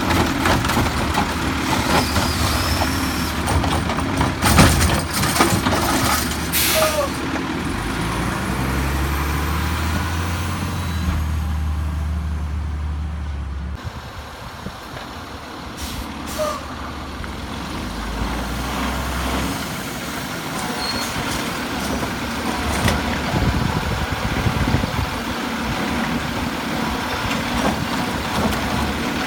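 Heil Rapid Rail automated side-loader garbage truck running, its engine steady with a louder stretch in the middle and near two-thirds of the way in. Sharp air hisses and clanks come about 4 to 7 seconds in and again a little past halfway.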